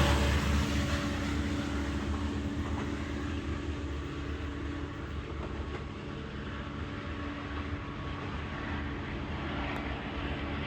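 Diesel passenger locomotives revving as the train pulls away. The engine sound fades over the first few seconds, then settles into a steady drone.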